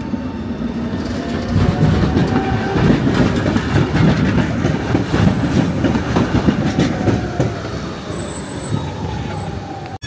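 A rail vehicle, tram or train, passing close by: wheels clattering over the rails, with a whining tone that rises and then falls, and a brief high wheel squeal about eight seconds in.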